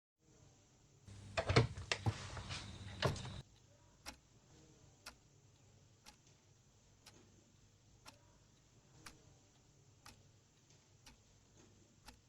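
A clock ticking about once a second, after a brief stretch of noise with a few sharp clicks in the first three seconds.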